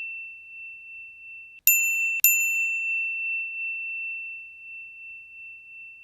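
A small bell's high ring, already fading at the start, then struck twice about half a second apart, roughly a second and a half in. Each strike rings on and slowly dies away.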